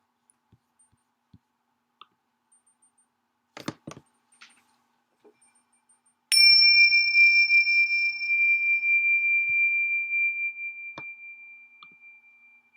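A metal chime struck once about six seconds in, ringing a single clear high tone that fades slowly over several seconds. A few faint knocks come before it.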